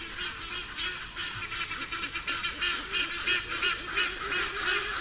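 Hornbill calls: a dense, unbroken run of short, repeated calls that overlap one another.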